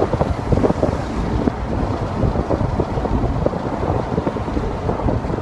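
Wind buffeting the microphone in an open-top C7 Corvette on the move, a gusty rumble that covers any engine or road sound.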